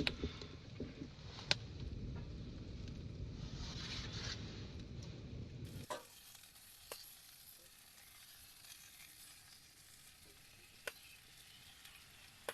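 Steak sizzling in a pan over a campfire, a steady frying hiss with a few sharp pops. About six seconds in it cuts to a quieter sizzle.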